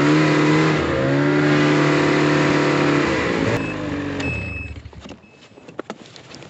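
Snowmobile engine running hard under load, pulling a rope through a snatch block to haul a dead sled up the ridge. Its pitch steps down about a second in and holds steady, then the engine backs off and fades out a little past halfway, leaving only faint clicks.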